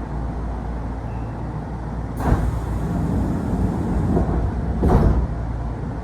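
Train car doors closing on their air-operated door engines at a station stop. A sudden hiss of air starts about two seconds in and runs for a couple of seconds, and a second short, louder burst of hiss and thump comes near the end, over the train's steady low rumble.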